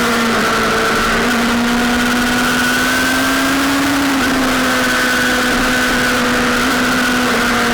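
Sportbike engine running at high revs under way, its note climbing slowly and then dipping slightly about four seconds in, over constant wind rush.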